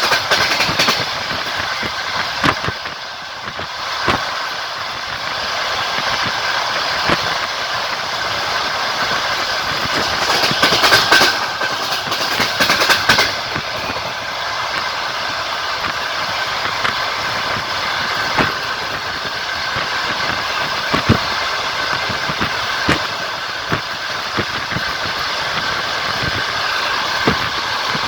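Passenger train wheels running on the rails, heard from aboard a moving carriage: a steady rolling rumble with single knocks from the rail joints at uneven intervals, and a burst of louder clatter around the middle.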